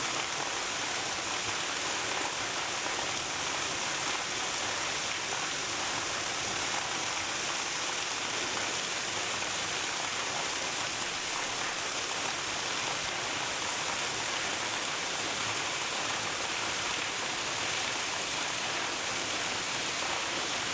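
Steady, unbroken rush of water falling at Minnemishinona Falls.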